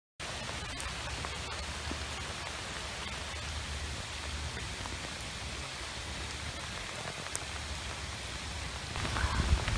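Steady rain falling on the surface of a flooded creek, an even hiss that starts abruptly and gets louder near the end.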